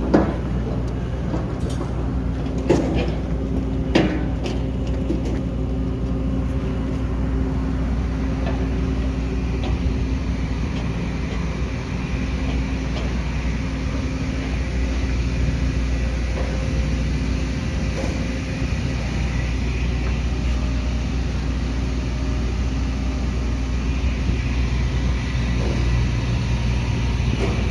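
A steady low engine hum, with a few short sharp knocks in the first four seconds.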